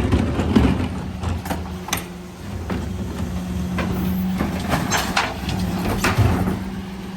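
Mercedes Econic refuse truck running with a steady hum, with sharp clanks and knocks scattered throughout.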